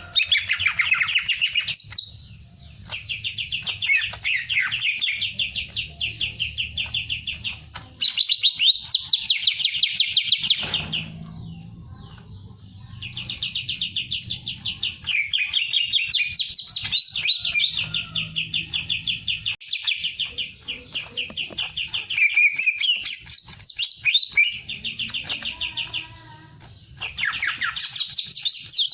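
A songbird in full, non-stop song, pouring out long runs of fast repeated trilled notes, several seconds each, with only brief breaks between them.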